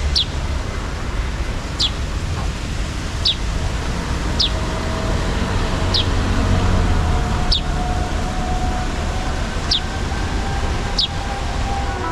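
A bird repeating a short, high, falling call about every one and a half seconds, eight times in all, over a steady low rumble.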